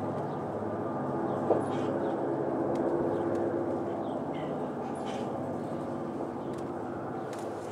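Freight train of coke cars rolling past, a steady, dense rumble with a sharp metallic click about a second and a half in.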